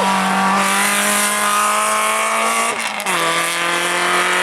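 Race car engine pulling hard under acceleration, its pitch climbing steadily. About three seconds in there is a brief break and the pitch drops, as at an upshift, then it climbs again.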